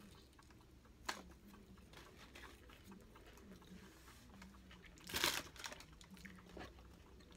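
Faint mouth sounds of someone chewing a crispy hash brown, with a sharp click about a second in. Just past five seconds a paper food wrapper crinkles briefly, the loudest sound.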